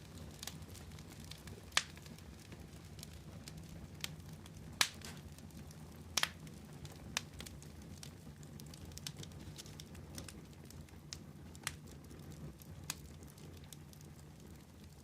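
Fire crackling: irregular sharp pops, a few of them louder, over a low steady rumble.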